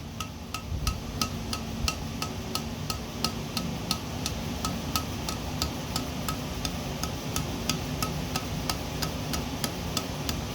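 Hand hammer striking hot steel on an anvil in quick, even blows, about three a second, each blow leaving a short metallic ring. The light, steady hammering is typical of drawing out a taper for a rat-tail finial. A steady low hum runs underneath.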